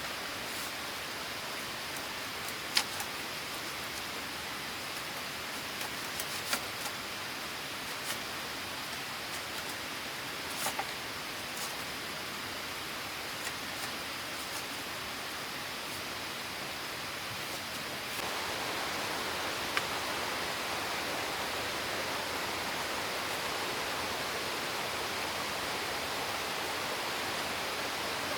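Steady hiss of falling water, with a few sharp clicks or taps scattered through it. It gets slightly louder about two-thirds of the way through.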